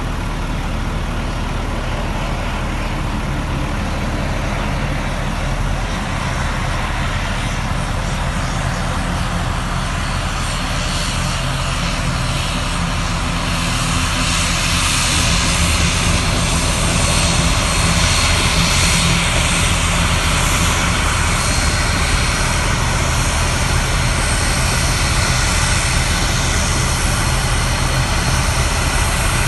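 Airliner engines running steadily, with a low hum under a broad rushing hiss that grows louder about halfway through and then holds.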